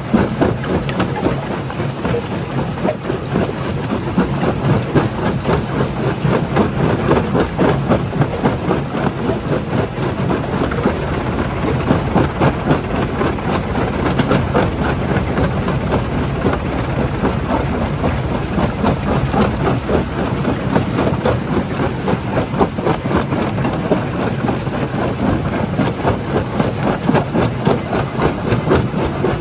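Primary jaw crusher running and crushing stone: a steady engine drone under a continuous dense clatter of rock being broken and knocked about.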